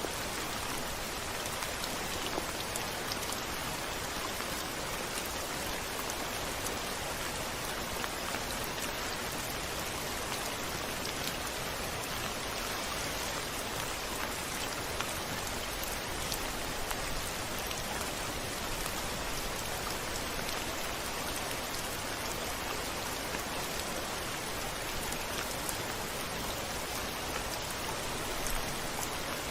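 Steady rain falling on a window pane: an even hiss of rain with fine ticks of single drops.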